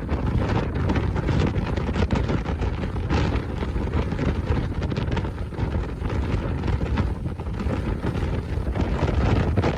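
Wind buffeting the microphone aboard a moving lake cruise boat: a loud, gusting low rush with the boat's steady underlying noise.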